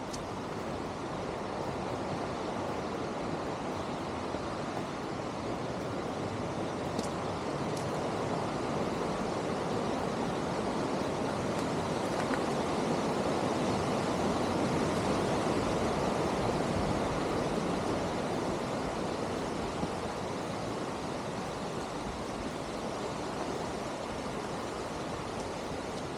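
Mountain stream rushing over rocks, a steady hiss of water that swells to its loudest about halfway through and eases off again.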